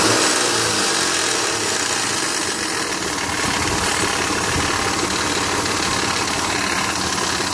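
2001 Mitsubishi Montero Sport's 3.0 L V6 idling cold, with a steady clatter from the front of the engine. The clatter comes from a timing belt tensioner left loose after a water pump job, so the timing belt is slack and the tensioner rubs on the plastic timing cover.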